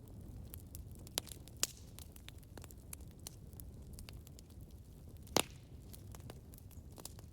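Campfire burning with a low steady rumble and scattered sharp crackles and pops, the loudest a little over a second in, again soon after, and a stronger pop about five seconds in.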